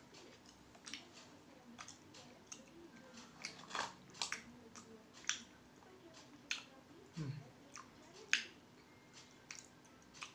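Someone chewing a chocolate with macadamia nuts in it close to the microphone: irregular crunchy clicks, a dozen or so, spaced unevenly.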